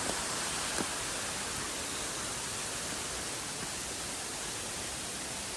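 Steady, even rush of a waterfall's falling water, with a faint tick just under a second in.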